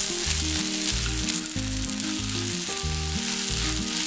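Sago khichdi sizzling in hot oil in a kadai while a spatula stirs and scrapes through it, the steady frying hiss broken by light scraping strokes.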